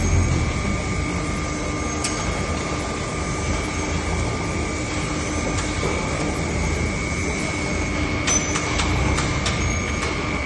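Foundry machinery running with a steady drone that holds several fixed tones over a low rumble. A few sharp knocks come near the end.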